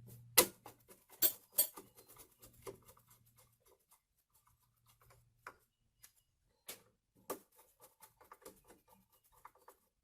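Clicks and knocks of a belt sander's parts being handled and fitted back together: a few sharp knocks in the first two seconds, then scattered lighter clicks with two more knocks past the middle.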